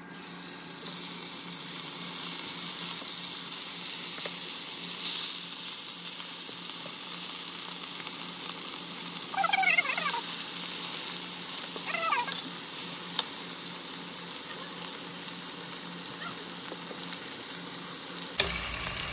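Spice-marinated chicken pieces sizzling in hot oil in a frying pan. The sizzle starts about a second in as the meat goes in and holds steady until it cuts off suddenly near the end. Two brief high-pitched cries sound over it, about ten and twelve seconds in.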